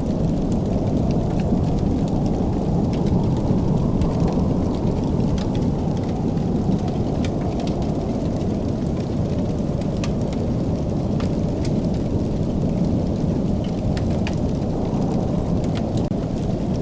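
Wood fire in a fireplace burning with a steady low roar, dotted with frequent sharp crackles and pops.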